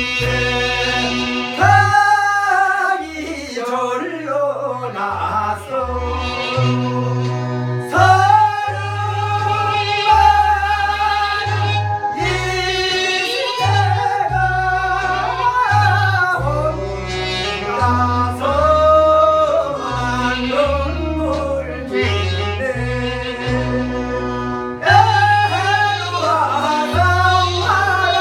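A solo singer sings a Korean song with a wavering, ornamented voice over an accompaniment with a steady, sustained bass line.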